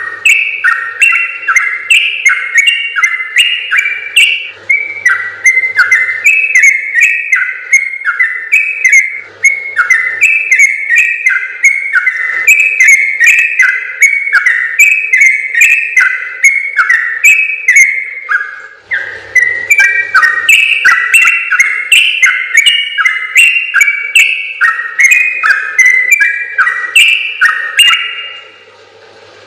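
Yellow-vented bulbul (trucukan) singing a long, rapid chattering song of quick whistled notes that jump up and down in pitch. It breaks off briefly a little past halfway and stops shortly before the end.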